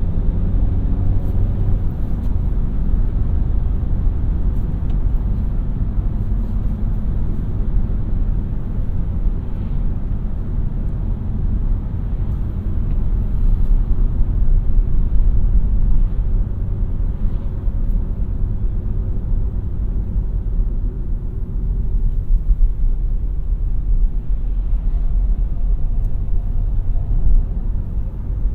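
2017 Renault Mégane TCe 100 driving: its 1198 cc turbocharged four-cylinder petrol engine and road noise make a steady low rumble, a little louder about halfway through.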